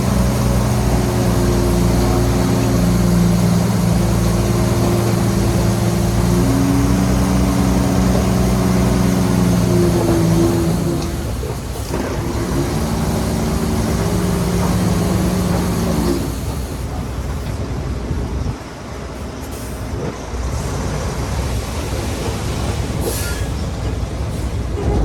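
Heavy diesel engine of earthmoving machinery running under load, its pitch shifting as it works. It drops to a quieter, rougher rumble about two-thirds of the way through.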